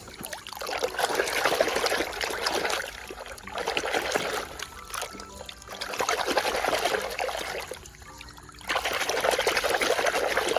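A stream of water running over a dirty toy double-decker bus as it is washed clean, coming in four spells of a couple of seconds each with short breaks between.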